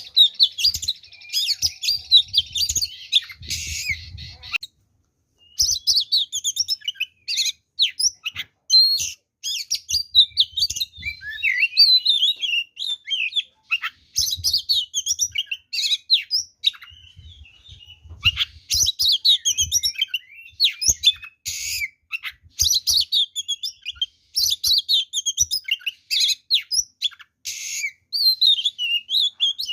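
Oriental magpie-robin (kacer) singing a fast, varied fighting song: rapid whistled and chattering phrases mixed with bursts of harsh rasping calls, with a short pause about four seconds in.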